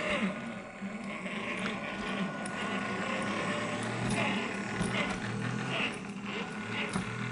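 Electric 370 motor and two-speed metal gearbox of a 1/16 WPL B36 six-wheel RC truck running, a steady whine and hum whose pitch shifts a little, with scattered small clicks.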